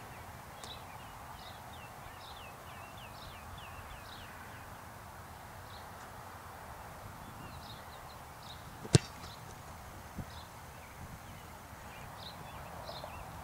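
Small birds chirping in short, quick downward-sliding calls over a steady outdoor background hiss. A single sharp, loud knock comes about nine seconds in, and a softer click follows a second later.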